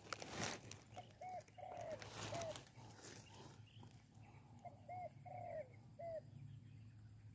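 A bird calling in two runs of short, arching hoot-like notes, four in the first run and five in the second, each run lasting about a second. A brief rustle at the very start.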